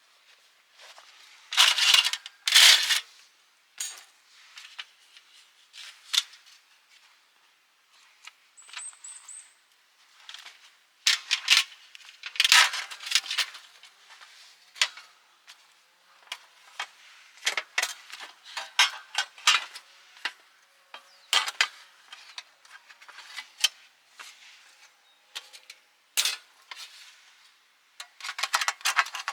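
Metal camping gear clinking and clattering as it is handled and set out, in irregular knocks of varying loudness.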